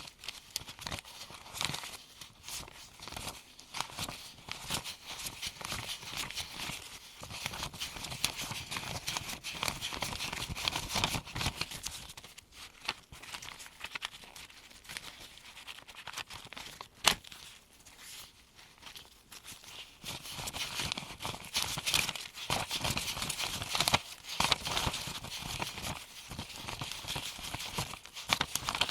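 US one-dollar bills counted hand to hand by gloved hands: a steady run of crisp paper rustles and flicks as each bill is passed, with one sharper snap about 17 seconds in. The rustling thins out in the middle and grows busier near the end.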